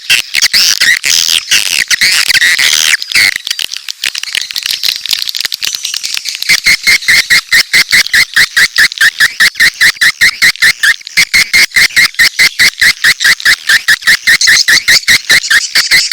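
Swiftlet calls from a lure recording of the kind played to draw swiftlets into a nesting house: dense, high twittering for the first few seconds, then after a brief lull a fast, even run of chirping clicks, about five a second.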